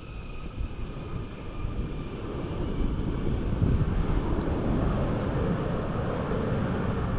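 Wind buffeting the microphone, mixed with the rumble of a jet aircraft that grows louder over the first few seconds and then holds steady.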